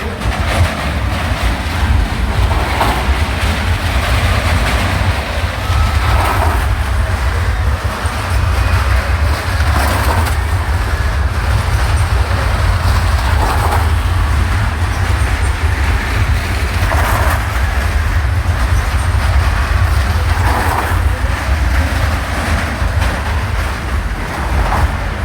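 Motorcycle engine running hard inside the wooden Wall of Death drum, with a deep, steady rumble from the boards. The engine note swells about every three and a half seconds as the bike circles past.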